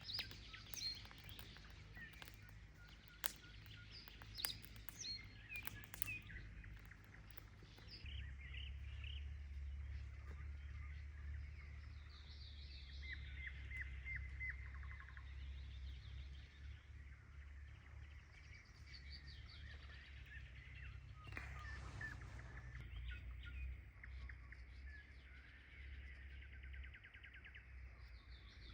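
Small birds chirping and twittering in short phrases, over a low steady rumble that gets louder about eight seconds in. A few sharp clicks come in the first several seconds.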